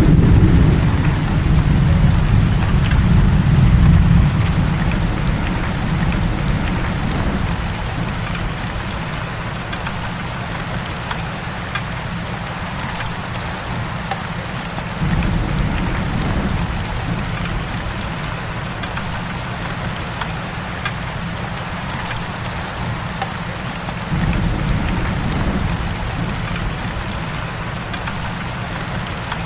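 Heavy rain falling steadily, a constant hiss of drops. Low rolling thunder rumbles under it at the start, fading over several seconds, and rolls in again suddenly about 15 seconds in and about 24 seconds in.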